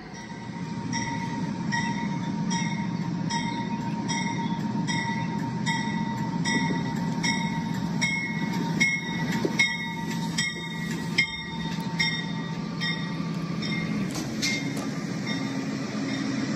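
A train passing, with a steady low hum under regular clicks of wheels over rail joints. The clicks come about every three-quarters of a second at first and quicken to two or three a second midway.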